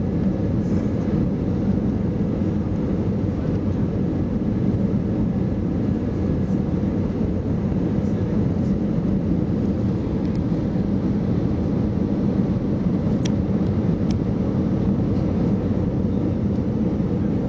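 Steady low rumble of an Airbus A320 airliner's engines and airflow on its landing approach. Two short ticks come about three-quarters of the way through.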